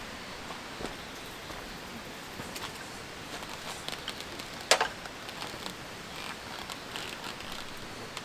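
Wood campfire crackling over a steady low hiss, with scattered small pops and one loud sharp pop about halfway through.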